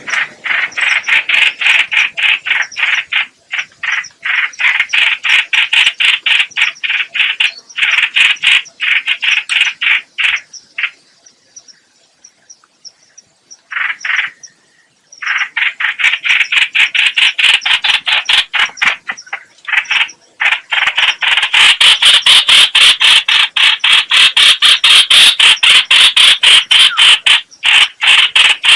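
Trao trảo (hoành hoạch) bird calling in long runs of rapid, harsh, evenly repeated notes, about five a second. It breaks off for a few seconds around the middle, then resumes, louder, near the end.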